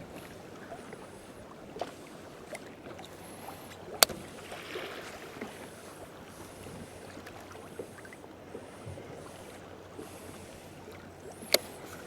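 Water lapping against a fishing kayak's hull, with a few sharp knocks: the loudest about four seconds in, another near the end.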